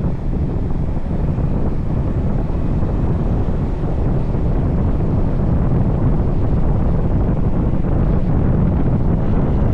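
Steady wind rushing over the microphone of a moving motorcycle, with the engine and road noise underneath, heaviest in the low range.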